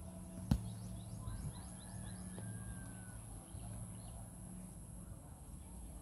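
Birds calling in open country: a quick run of high, downward-sweeping chirps, then one long whistle that slowly falls in pitch, over a steady high hiss and a low hum. A single sharp tap about half a second in is the loudest sound.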